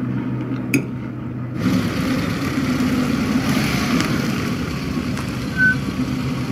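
A low steady hum, then from about one and a half seconds in a car engine idling over steady street traffic noise, with a short high beep near the end.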